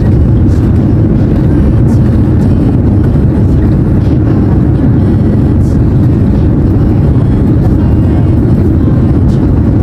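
Loud, steady low rumble of jet airliner noise heard inside a Boeing 787-10's cabin.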